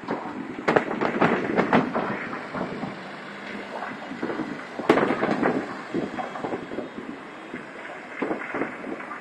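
Fireworks going off: a run of bangs and crackles over a rumbling background, with the sharpest reports about a second in and about five seconds in.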